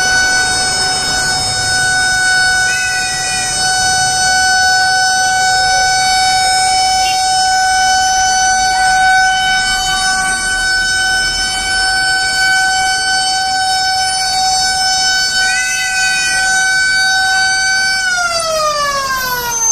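Fire truck siren holding one steady high tone for a long stretch, then sliding down in pitch near the end.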